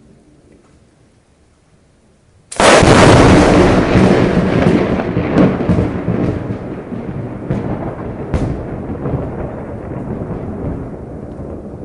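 A thunderclap: a sudden loud crack about two and a half seconds in, followed by a long rolling rumble that slowly fades.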